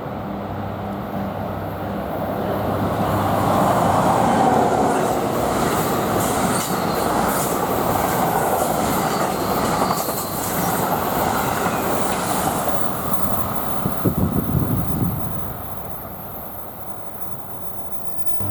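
NJ Transit commuter train passing close by: its rumble builds to a peak about four seconds in and holds, with light wheel squeal. A quick run of wheel clicks comes around fourteen seconds in, and then the sound fades as the train moves off.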